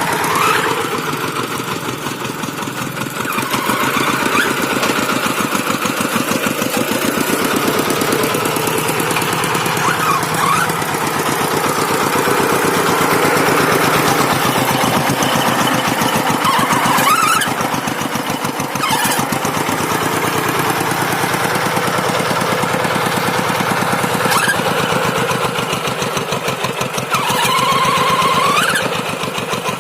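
Single-cylinder diesel engine of a two-wheel hand tractor running steadily under load while pulling a moldboard plow, with an even, fast knocking beat.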